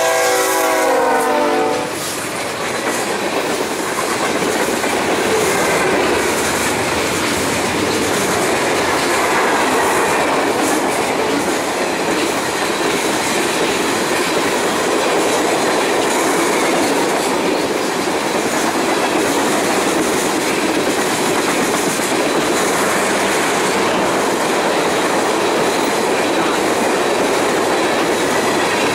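Air horn of a CN freight led by GE ES44DC CN 2332, its chord cutting off about two seconds in as the locomotives pass. Then the steady noise of a long train of tank cars rolling by at speed, steel wheels on rail.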